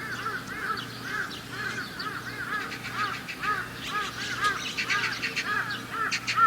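A bird calling over and over in short arched notes, about two or three a second, over a wood campfire that crackles and pops, more often in the second half.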